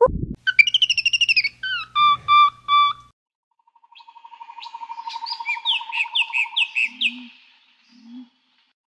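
Bird calls: a quick warbling trill, then three short whistled notes; after a pause, a rapid even trill runs under a string of short falling chirps.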